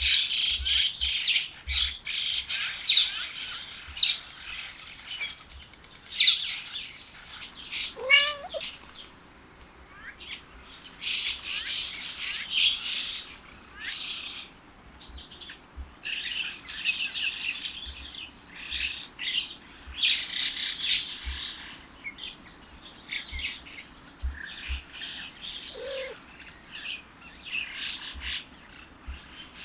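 Small birds chirping and chattering in repeated bursts, with a cat meowing once about eight seconds in and a short second cat call near the end.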